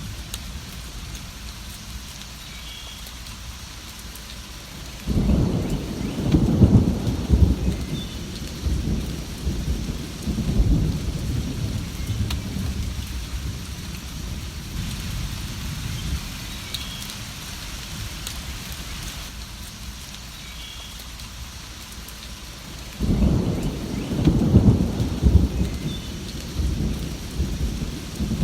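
Steady rain with two rolls of thunder. Each starts suddenly as a low rumble, about five seconds in and again near the end, and rolls on in several swells for a few seconds before fading back under the rain.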